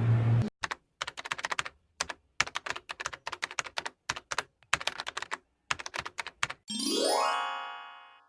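Bursts of rapid computer-keyboard typing clicks with dead-silent gaps between them, then a rising pitched sweep that fades away near the end.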